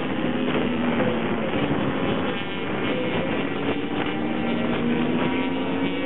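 Several small racing minibike engines running hard at once, their pitches rising and falling as they rev.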